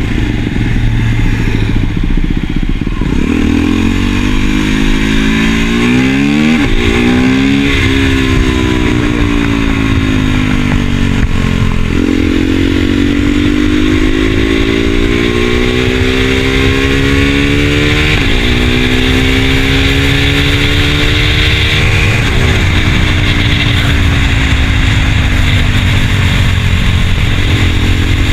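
KTM Duke 390 single-cylinder engine under way, pulling through the gears. The pitch climbs and drops at several quick gear changes, then winds down as the bike eases off near the end. Steady wind noise runs underneath.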